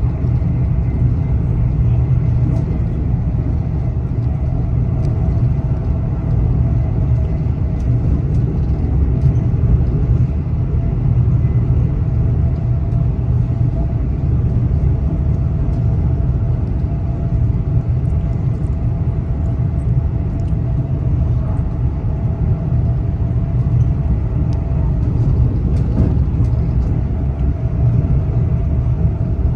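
A moving train's steady low rumble, with a faint steady hum above it and occasional light ticks.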